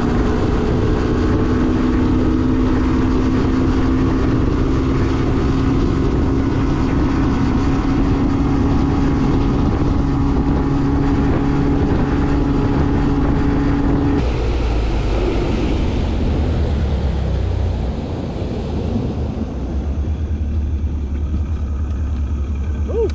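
Boat's outboard motor running under way, a steady engine tone with wind noise over the microphone. About two-thirds through, the engine note changes and drops to a lower hum as the boat throttles back.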